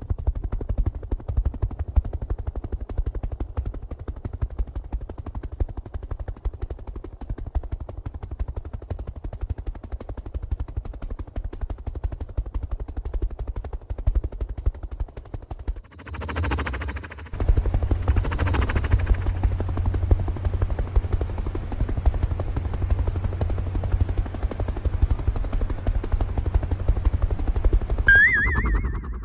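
Small motor of a DIY model tractor running with a fast, steady rattle. There is a brief break about sixteen seconds in, then the rattle picks up again, and a short warbling whistle sounds near the end.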